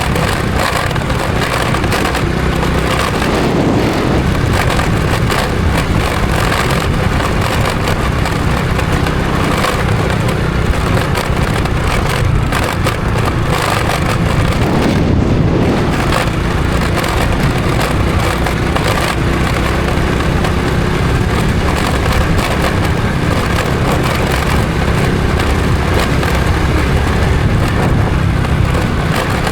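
Honda Supra X 125 FI's single-cylinder four-stroke engine running steadily while riding, mixed with heavy wind and road rush. Its pitch shifts briefly twice.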